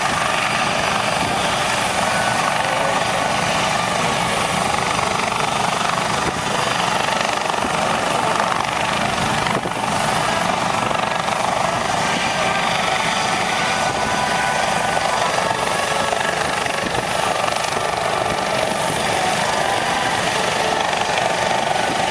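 Aircraft engine noise running steadily, with no rise or fall.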